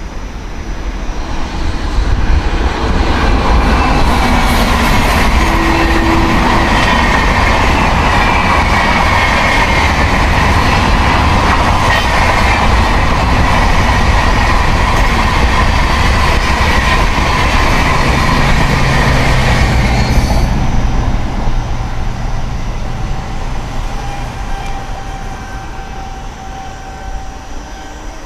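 A train passing close by at speed, its wheels running loudly on the rails. The noise swells within the first few seconds, holds for about a quarter minute, then falls away abruptly and fades as the train recedes.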